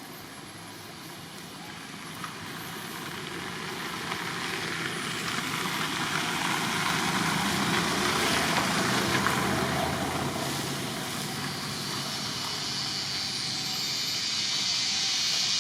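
A motor vehicle passing by: its engine and road noise swell to a peak about eight seconds in, then fade. Near the end a steady high-pitched hiss comes in.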